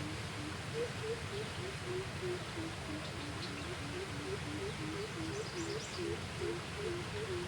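Animals calling outdoors: a steady run of short, low notes, about three to four a second, from more than one caller, over a steady hiss. A few faint, high chirps come about three seconds in and again near six seconds.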